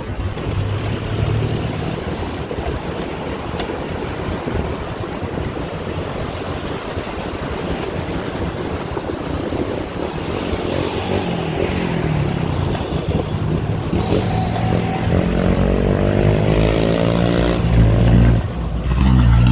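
Steady road and wind noise from a moving vehicle; in the last few seconds its engine accelerates with a rising pitch, dipping briefly once as if shifting gear before climbing again.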